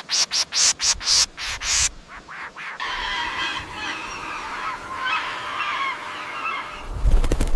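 African grey parrots calling: a quick run of about eight harsh squawks, then a few seconds of busy, scratchy chattering. A brief cluster of rustling thumps comes near the end.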